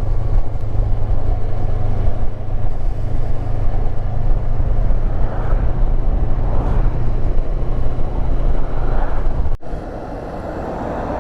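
Honda CB500X parallel-twin engine running steadily at road speed under wind and road noise. It cuts off abruptly about nine and a half seconds in, giving way to a quieter engine hum.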